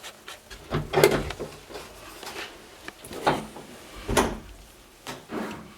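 A few separate knocks and bumps, about a second apart, with quieter rustling and scraping between them, like wooden boards or objects being handled.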